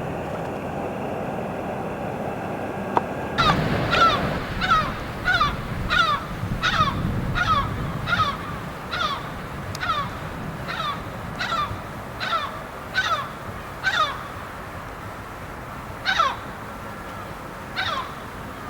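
A crow cawing over and over, about two harsh caws a second for some ten seconds, then two more spaced-out caws near the end. Before the caws begin, a few seconds of steady train rumble with a faint whine.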